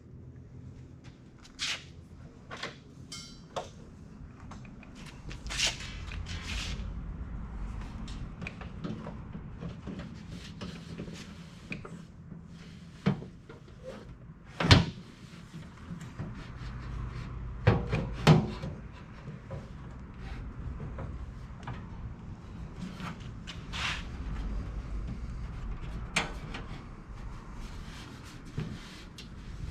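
Scattered knocks, clunks and scrapes of a small diesel heater being handled and test-fitted into a box. The sharpest knock comes about halfway through, with two more close together a few seconds later.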